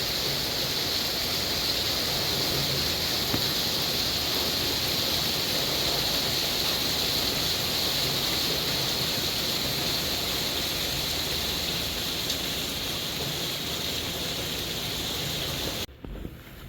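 Rain shower falling steadily, an even, continuous hiss, which cuts off suddenly near the end.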